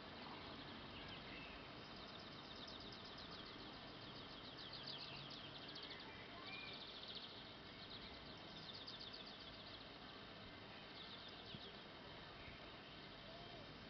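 Faint steady background hiss with a bird singing rapid high trills, about five of them, each a second or two long, and a short chirp midway.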